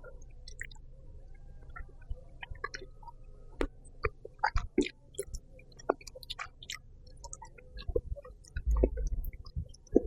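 Close-up chewing and mouth sounds of someone eating: irregular wet smacks and clicks, growing busier about a third of the way in, with a dull thump near the end.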